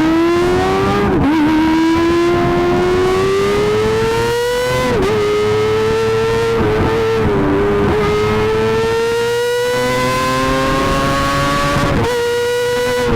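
Kawasaki ZX-25R's small inline-four through an Akrapovič GP titanium exhaust, running at very high revs with a high, steady note whose pitch climbs slowly through long pulls. The pitch dips briefly about five seconds in and again near the end, then climbs again.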